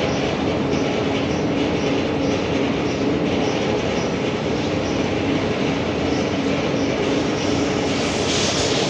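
A machine running steadily, with a hum and a regular high-pitched pulsing about two to three times a second.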